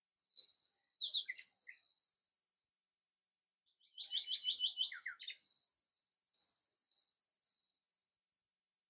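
A songbird singing two phrases of high, quick notes. The second phrase opens with a rapid run of short down-slurred notes and trails off into softer, thinner notes.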